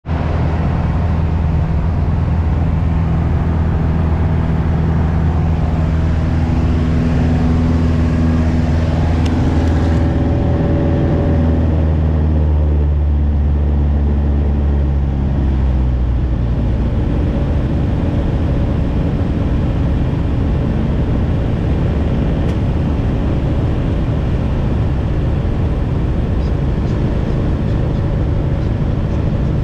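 Light aircraft's piston engine and propeller running steadily, then the engine note drops in pitch between about ten and sixteen seconds in and carries on lower and rougher.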